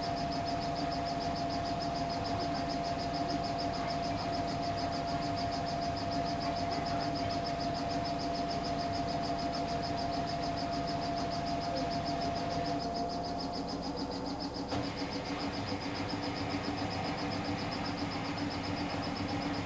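Samsung Eco Bubble washing machine running mid-cycle on a cotton wash: a steady motor whine over a low hum and rumble, which dips and shifts briefly about thirteen seconds in.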